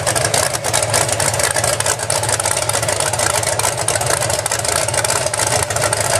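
Off-road truck engine idling steadily and loudly, with a rapid rough exhaust.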